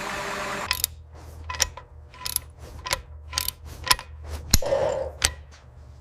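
An engine running, cut off abruptly under a second in, then a series of sharp metallic clicks and clinks, about two a second, from small metal parts and tools being handled, over a faint steady hum.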